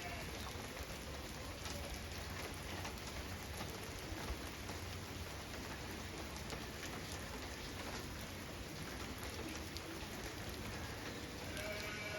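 Steady rain falling, with individual drops ticking close by; a faint pitched call sounds near the end.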